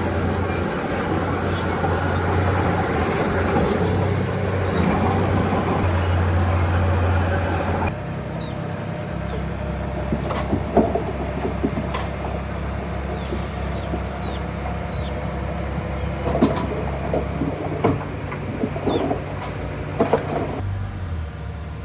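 Diesel engine of heavy earthmoving machinery running steadily. The sound changes abruptly about eight seconds in, and from about ten seconds on scattered sharp knocks and clanks of metal and rock sound over the engine.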